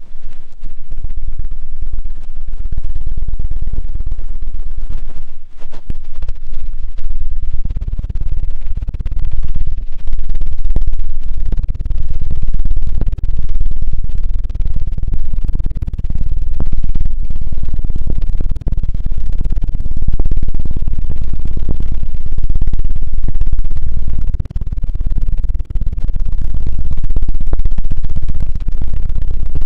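ASMR 'helicopter' ear-cleaning trigger: fast, continuous rubbing and flapping on a binaural microphone's ear, heard as a loud, deep, fluttering buffeting with a few brief pauses.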